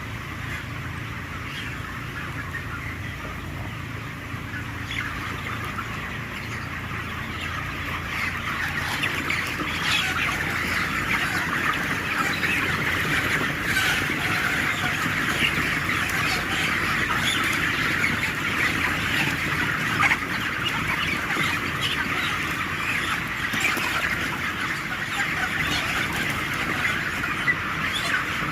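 A large flock of 26-day-old broiler chickens making a dense, continuous chatter of chirps and clucks, louder from about a third of the way in, over a steady low hum of ventilation fans.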